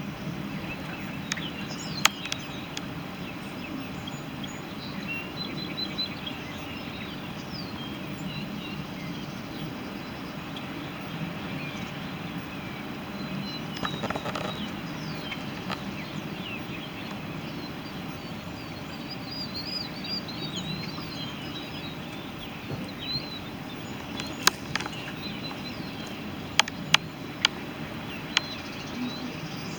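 Outdoor ambience of small birds chirping over a steady low hum, with several sharp clicks near the end.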